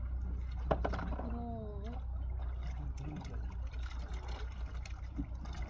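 Sea water lapping and trickling around a floating fishing platform over a steady low hum, with a few small knocks and a faint voice in the background.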